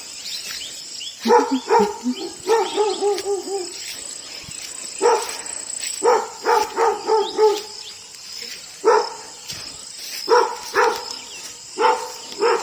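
A dog barking in repeated bouts, some of them quick runs of short, rising-and-falling yelps.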